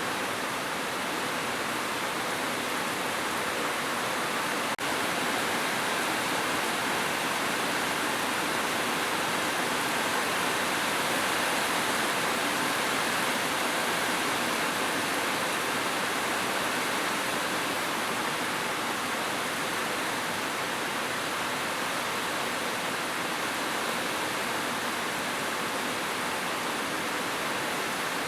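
Heavy rain falling steadily on a roof, an even unbroken patter with no thunder.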